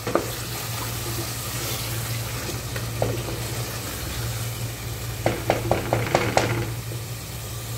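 Chicken and masala sizzling as they fry in their own released oil in a metal pot, stirred with a wooden spoon. Past the middle comes a quick run of about seven knocks of the spoon against the pot.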